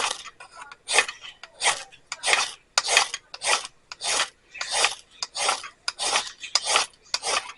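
A steel striker scraped hard and repeatedly down a fire-starting rod to throw sparks, about a dozen rasping strokes at roughly one and a half a second. The steady repetition is a sign the damp tinder is not catching.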